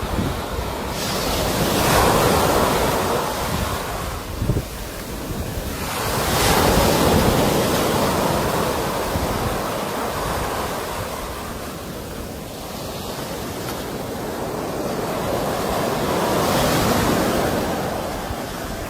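Sea waves breaking and washing up the shore, the rushing noise swelling and fading in slow surges, three of them loudest.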